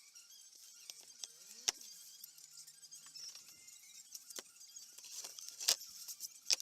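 Scattered sharp clicks and light clinks of small hard objects being handled, with a few louder ones, one a little under two seconds in and two near the end.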